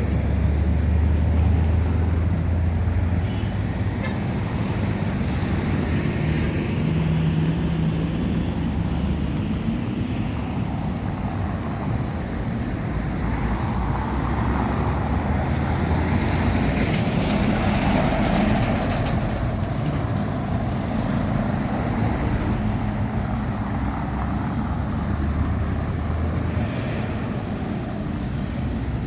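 Steady motor-vehicle engine hum and road noise, rising and falling slowly in level.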